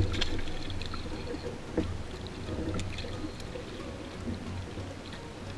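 Water lapping and sloshing against a small boat's hull over a low, steady rumble, with scattered faint clicks.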